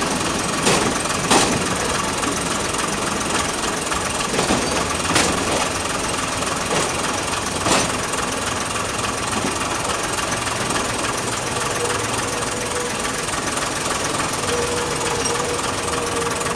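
Trains on the move: a steady rumble of a diesel engine and wheels on track, with a few sharp clacks of wheels over rail joints as coaches run past close alongside.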